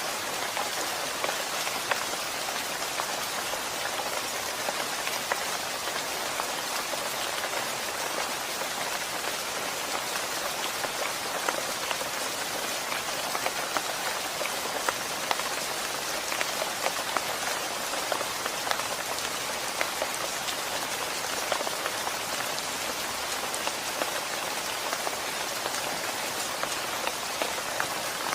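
Steady rain pattering on a surface, a constant hiss with many small sharp drop ticks.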